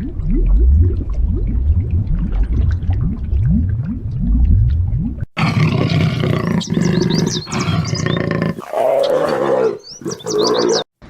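A large animal's deep, repeated roaring call made of many short rising strokes. About five seconds in it cuts off abruptly, and a different recording follows with high chirps over a rumbling, noisy background.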